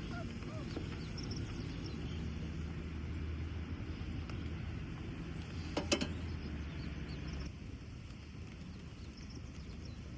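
Outdoor ambience: a steady low engine-like rumble that stops about seven and a half seconds in, with faint bird chirps and a single sharp click about six seconds in.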